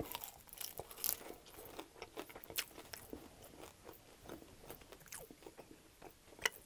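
Biting into and chewing an extra-crispy air-fried chicken wing: a string of irregular crunches and clicks as the crispy skin breaks up.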